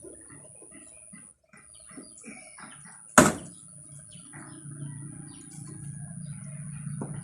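Birds chirping, with one sharp knock a little past three seconds in that is the loudest sound, and a low steady hum from about four seconds on.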